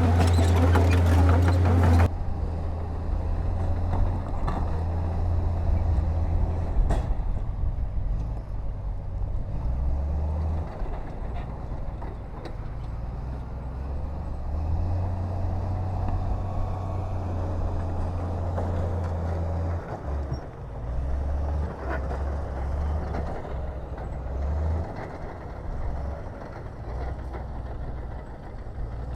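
Heavy diesel construction machinery running: a low engine rumble that rises and falls in strength as the machines work. A louder, fuller sound cuts off abruptly about two seconds in, and there is a single sharp click later on.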